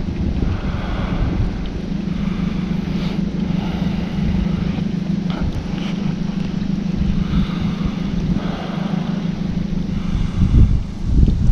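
Boat motor running steadily, a constant low hum, with wind noise on the microphone.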